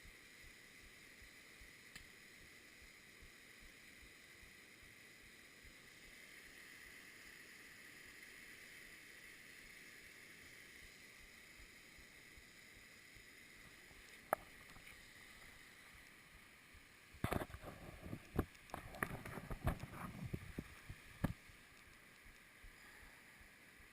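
Faint, steady rushing of water at a waterfall. About three-quarters of the way through comes a couple of seconds of irregular sharp knocks, after a single click a few seconds earlier.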